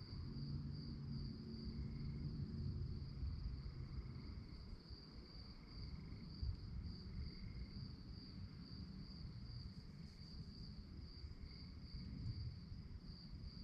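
Crickets chirping at night in a steady, fast-pulsing high trill, with a fainter, lower chirp coming and going and a low rumble underneath.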